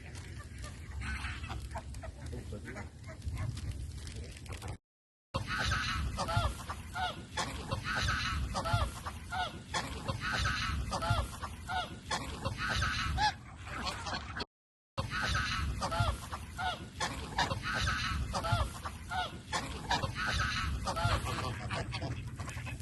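Waterfowl calling: many short calls, several a second, overlapping, over a low rumble. The sound cuts out for about half a second twice.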